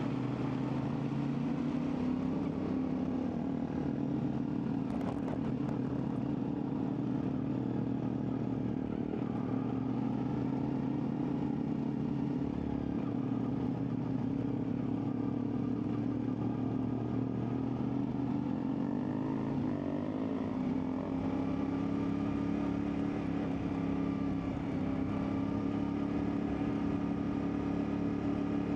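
CFMoto 450MT's 449 cc parallel-twin engine running steadily under way, its note falling and then climbing again about twenty seconds in as the throttle is eased and reopened.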